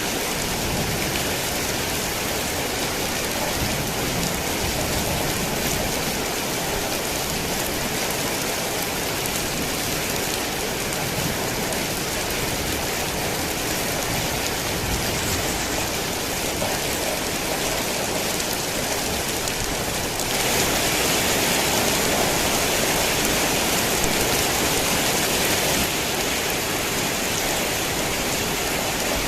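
Heavy rain falling in a steady, dense hiss of drops. It gets louder and brighter for about six seconds about two-thirds of the way through, then settles back.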